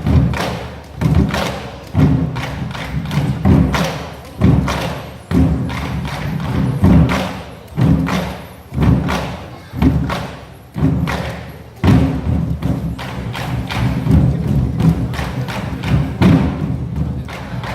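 Nanta drum group beating large Korean drums (buk) in unison over recorded backing music, with heavy low hits landing about once a second.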